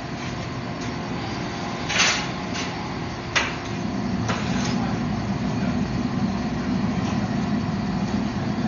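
Forge-shop machinery running steadily, with a short hiss about two seconds in and a sharp knock just after. A low hum grows stronger about four seconds in.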